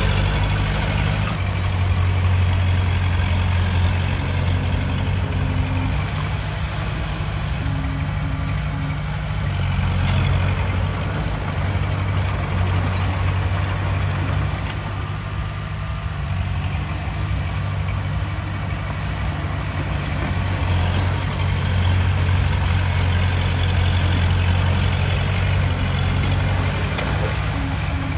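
Heavy diesel engine of earthmoving machinery running steadily, a deep low drone that eases a little midway and picks up again.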